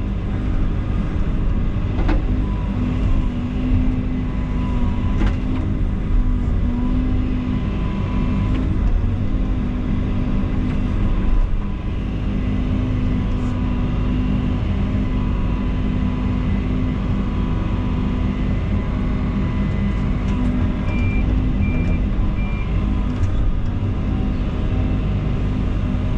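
Diesel excavator engine running steadily with a constant low hum, a few short knocks of the machine at work, and three short high beeps near the end.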